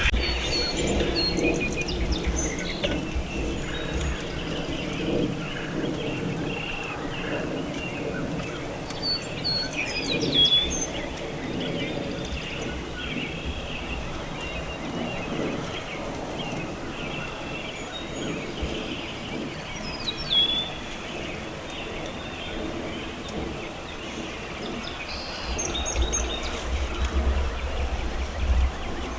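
Morning chorus of songbirds calling and singing all around, with one bird repeating a short downward-sliding call about every ten seconds. Low wind rumble on the microphone at the start and again near the end.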